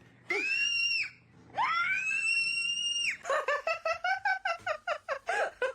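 Animal calls: two long calls, each rising at the start and then held, followed by a rapid run of short calls, about four or five a second.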